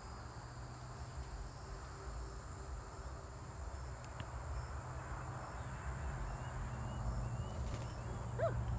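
Steady high-pitched insect chorus over a low steady rumble, with a few faint short chirps in the middle.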